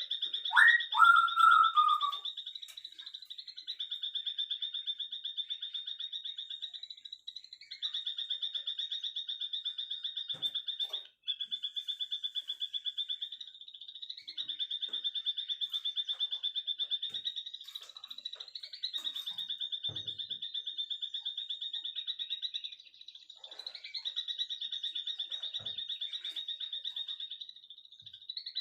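A high, fast-pulsing animal trill runs in long stretches of several seconds with brief breaks. In the first two seconds a bird gives a few short whistled calls that sweep up and down.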